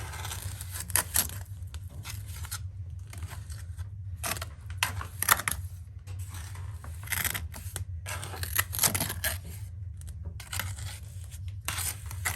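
Steel trowel scraping and working wet mortar in irregular strokes, over a steady low hum.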